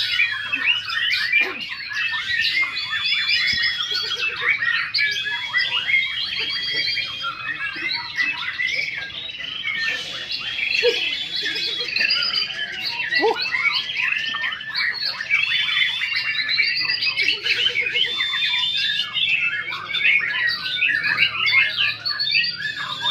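Several white-rumped shamas singing at once: a dense, unbroken mix of overlapping held whistles, sliding notes and rapid trills.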